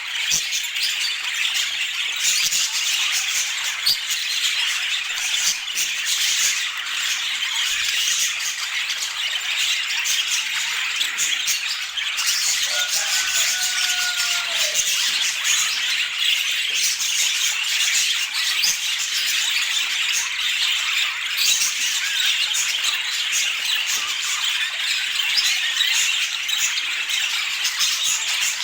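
Budgerigars chattering and squawking without a break, a dense high-pitched warble.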